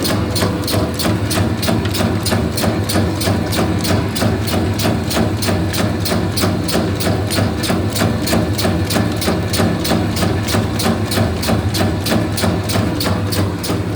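Meatball-forming machine running: a steady motor hum under a fast, even clicking of the mechanism, about five clicks a second.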